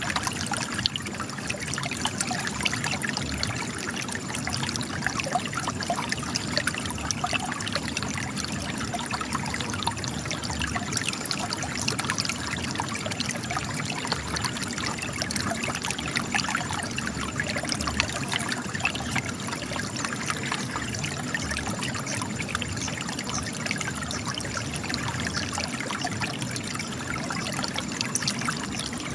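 Spring water trickling and splashing where it gushes from cracks in rocks, a steady babble of small drips and splashes.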